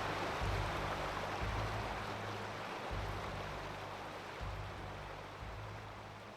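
Rushing white water of a waterfall, a broad roar that fades steadily away, with deep low rumbles coming and going about once a second underneath.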